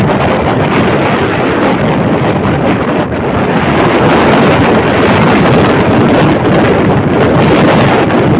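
Strong wind buffeting the microphone: a loud, steady rushing rumble with no clear pitch, dipping briefly about three seconds in.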